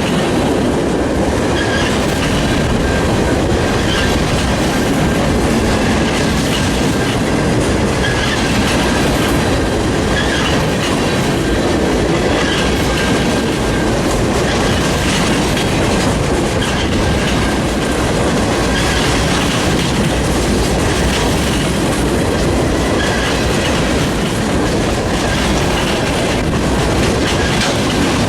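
Freight train cars rolling past: a steady heavy rumble with the clickety-clack of wheels over rail joints, and a faint high wheel squeal that comes and goes.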